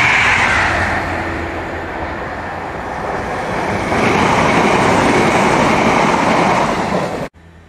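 Royal Mail Class 325 electric multiple unit passing close at speed: a loud, steady rush of wheels on rail and air, easing a little and then rising again as the carriages go by. The sound cuts off suddenly near the end, leaving a faint low hum.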